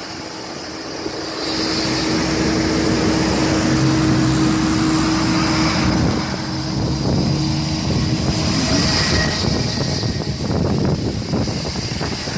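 Vehicle noise heard from inside a moving car: steady road and wind noise with an engine hum, growing louder about a second and a half in. A steady low tone stops about nine seconds in.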